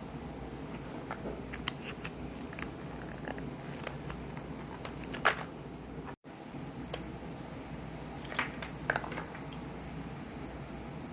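Steady low background hum with scattered light clicks and rustles, the sharpest about five seconds in and a small cluster near nine seconds. The sound cuts out completely for an instant about six seconds in.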